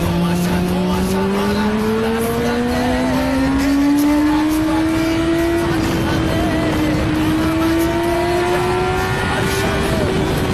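Kawasaki ZX-10R sport bike's inline-four engine pulling hard, its pitch rising steadily for about six seconds, dipping briefly, then climbing again. Music plays faintly underneath.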